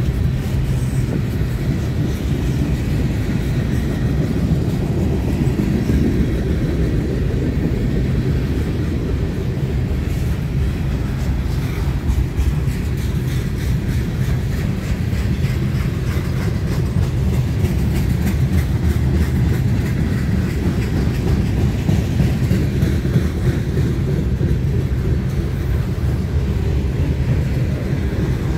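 Freight cars (tank cars and boxcars) of a long train rolling past: a steady low rumble of steel wheels on rail, with continual clicking and clacking over the rail joints.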